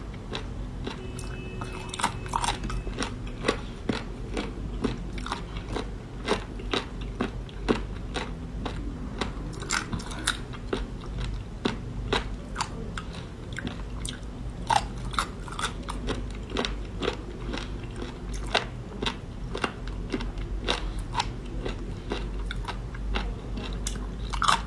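A person biting and chewing seafood, with many short sharp cracks and clicks at irregular intervals.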